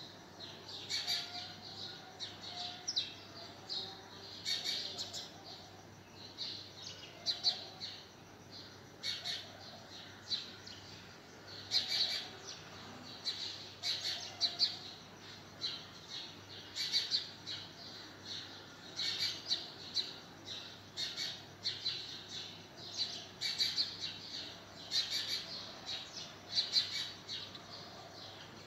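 Small birds chirping in short, irregular calls, a couple each second.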